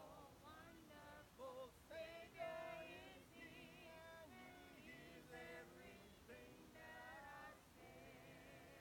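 A gospel hymn sung by male and female voices, heard very faintly.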